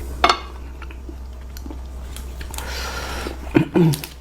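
Close-miked mouth sounds of someone chewing curry noodles, with a sharp click about a quarter second in and a louder cluster of wet mouth sounds near the end.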